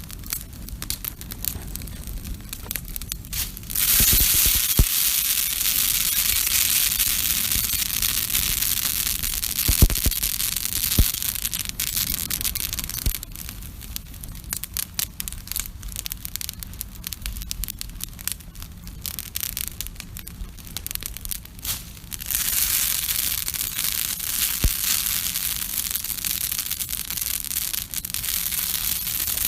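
Wood campfire crackling with scattered sharp pops. The crackle thickens suddenly into a dense hissing sizzle about four seconds in, eases off by the middle, and surges again about two-thirds of the way through.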